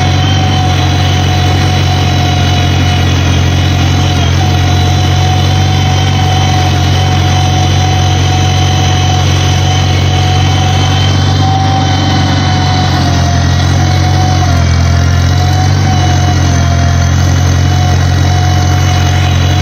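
Small tractor engine running at a steady speed, with a thin whine riding over it that wavers slightly in pitch.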